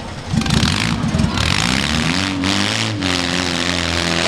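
A demolition derby car's engine rumbles, then revs up from about a second and a half in and holds at high revs.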